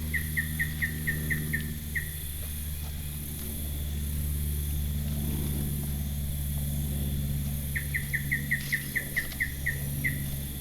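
A bird calling in rapid runs of about a dozen short, evenly spaced chirps, one run at the start and another near the end, over a steady high insect drone and a low steady hum.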